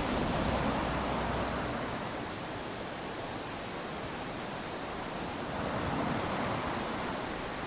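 Small waves lapping onto a sandy beach: a steady wash of surf that swells twice, near the start and again about six seconds in.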